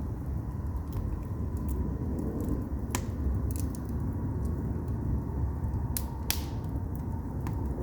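Firewood burning in an agungi (Korean traditional firebox): a steady low rumble of flames with scattered sharp crackles and pops. The loudest pops come about 3 seconds in and twice around 6 seconds in.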